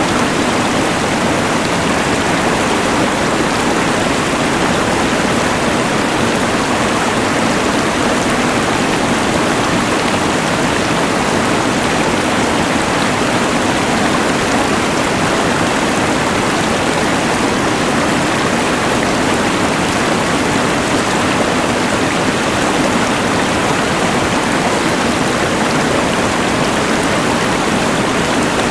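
A rushing mountain river blended with the hiss of a LectroFan white noise machine, forming one even, unbroken rush of noise that does not change.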